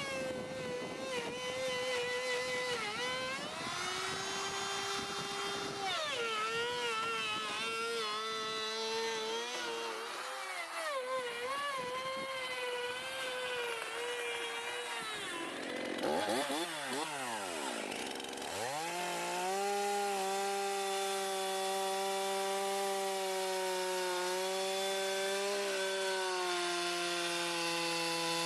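A motor running with a steady whine. Its pitch shifts up and down, drops sharply and climbs back about two-thirds of the way through, then holds steady.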